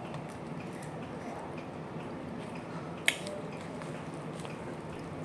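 A person chewing and making wet mouth sounds while eating rice with her fingers, with small faint clicks throughout and one sharp click about three seconds in.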